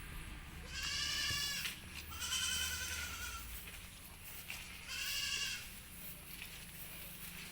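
A goat bleating three times, each call a wavering, drawn-out bleat about a second long.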